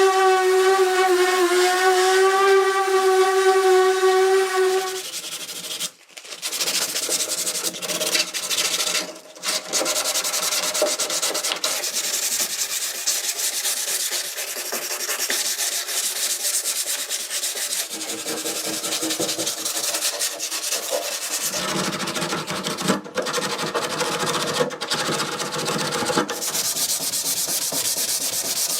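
A steady pitched whine for about the first five seconds. It stops, and from about six seconds in, continuous abrasive sanding runs on, rubbing against a surface during the car's restoration bodywork.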